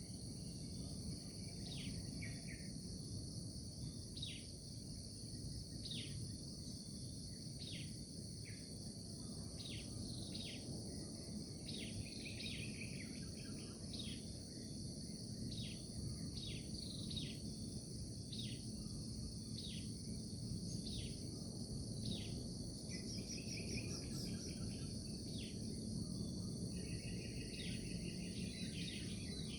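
Steady, unbroken high-pitched insect chorus. Over it, a bird repeats a short falling call every second or two, with a few brief trills mixed in. A low rumble of background noise sits underneath.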